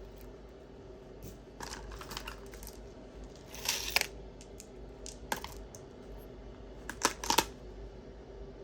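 Costume jewelry pieces clicking and clinking as they are handled and set down: scattered light clicks, a small cluster about four seconds in, and two sharper clicks about seven seconds in.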